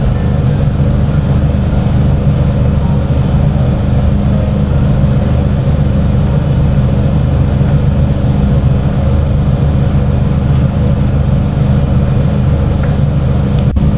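Steady low mechanical drone of an abra water taxi's machinery, heard from inside its cabin while the boat idles at the station.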